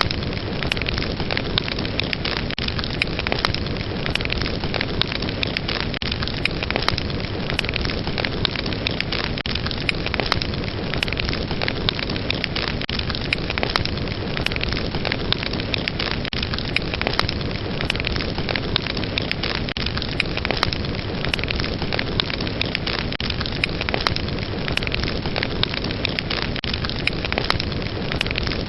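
Fire burning: crackling flames, a steady hiss dotted with frequent sharp snaps.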